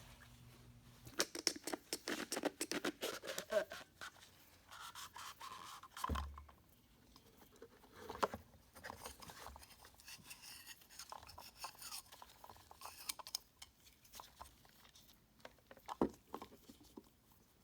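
Hands working the oil filter cartridge out of its housing with shop rags: irregular scraping, rustling and small clicks, with a dull knock about six seconds in and a sharp click near the end.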